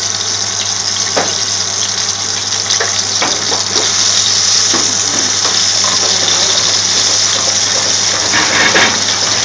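Shami kababs shallow-frying in hot oil in a pan: a steady, loud sizzle, over a low steady hum.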